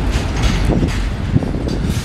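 Train running on the rails: a steady low rumble with irregular metallic clanks from the wheels.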